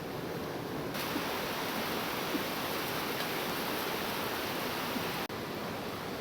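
Steady rushing of flowing stream water. The sound shifts abruptly and gets brighter about a second in, and drops out for a moment after about five seconds.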